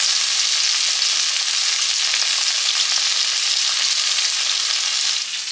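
Food sizzling as it fries in a pan: a steady sizzle that cuts off about five seconds in.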